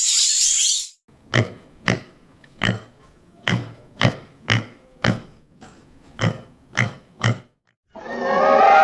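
A pig grunting in about eleven short grunts, roughly two a second. It opens with a steady high chirring that cuts off about a second in. Near the end a loud, drawn-out call from another animal begins.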